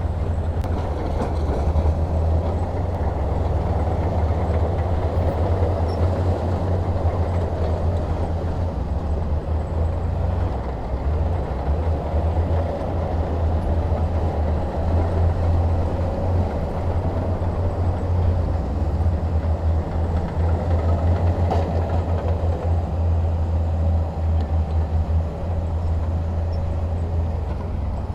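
Heavy diesel engine of earthmoving machinery running steadily under load, a deep low rumble with a fluttering, pulsing texture.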